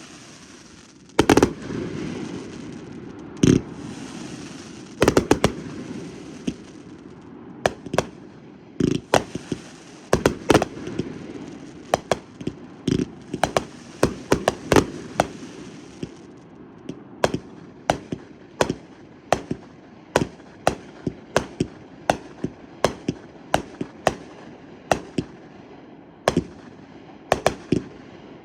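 Fireworks exploding: dozens of sharp bangs at irregular intervals, sometimes several a second, over a steady low rumble. Crackling follows some bursts early on and again through the middle.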